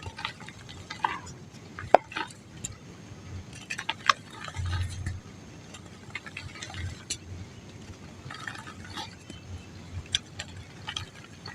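Dry mud crumbling: scattered crisp crackles and small sharp clicks, with a couple of louder snaps about two and four seconds in.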